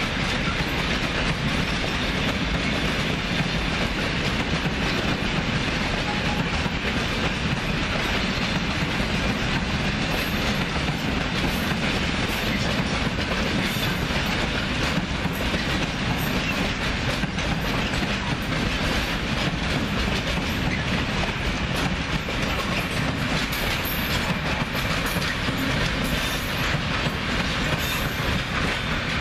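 Freight train of open-top wagons passing at a steady speed, the steel wheels running on the rails with a continuous, even noise.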